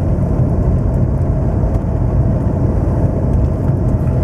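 Steady engine and road noise from inside the cab of a moving truck.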